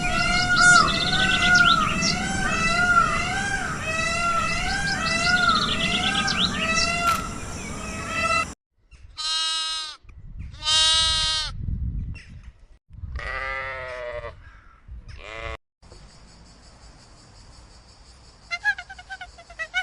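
A run of farm animal calls. First a chorus of overlapping calls repeating about twice a second with high bird chirps, then several long wavering bleats. After a quieter stretch with a faint steady high tone, short repeated honks begin near the end.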